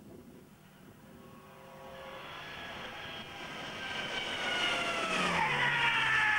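Mercedes-Benz 190 (W201) rally car's engine approaching at speed, growing steadily louder; its note falls in pitch as the car goes by, about five seconds in.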